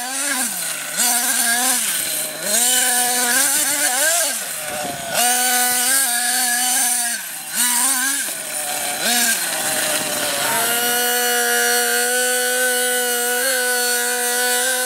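Small nitro engine of a CEN Genesis GST 7.7 RC monster truck revving in repeated bursts, its pitch dropping each time the throttle is let off, about five times. For the last four seconds it holds steady at high revs.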